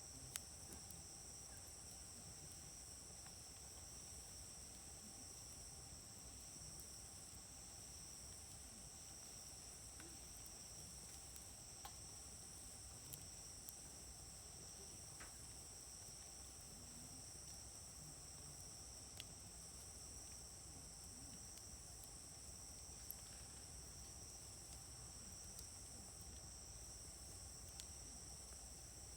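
Insects chirring steadily at a high pitch, with a few sharp, scattered pops from a wood campfire.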